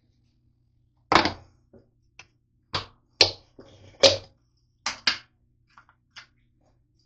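A series of irregular hard knocks and thunks, about seven over five seconds, the loudest about a second in and about four seconds in.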